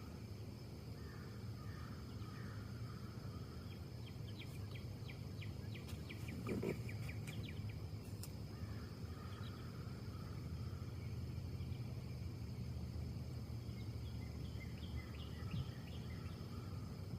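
Outdoor ambience of wind in trees: a steady low rumble with small birds chirping over it, including a rapid chattering series of short notes about four to seven seconds in.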